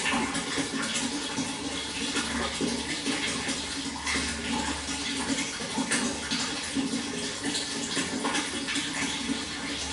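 Water flowing steadily, a continuous rush broken by many small splashes.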